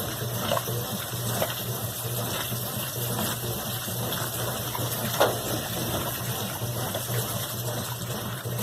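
Brastemp BWQ 24 washing machine running with water gushing and a steady motor hum, with a few light knocks, the sharpest about five seconds in.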